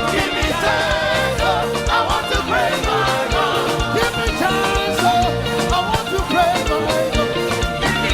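Upbeat live praise band music with a steady drum beat and a busy bass line, with voices singing over it.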